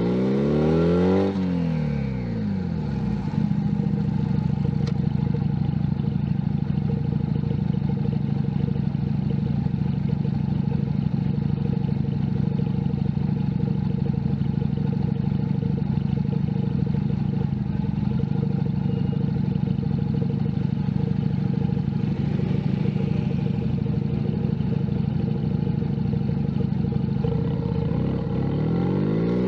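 Junak M11 Cafe 125 cc motorcycle engine slowing down in the first second and a half, then idling at a steady pitch, and revving up again as the bike pulls away near the end.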